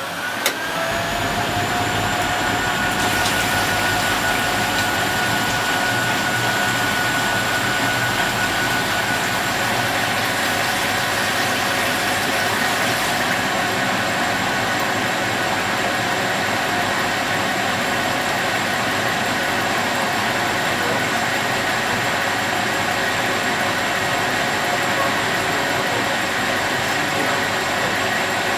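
Zanussi Z913 washing machine spinning. The motor's whine finishes climbing to speed in the first second or so, with a click shortly after the start, then holds at a steady high spin.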